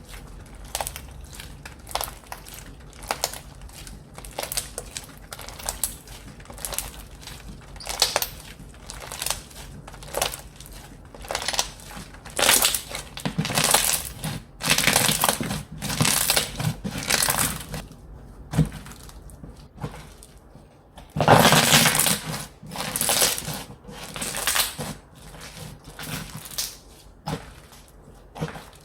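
Slime being squeezed and pressed by hand, giving crisp crackles and small pops, with longer crunching bursts in the second half.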